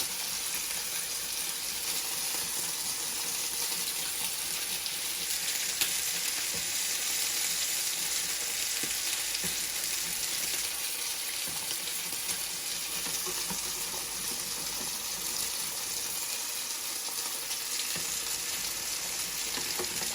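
Mushroom sauce of butter and milk sizzling steadily in a pan while being stirred, with a few faint clicks.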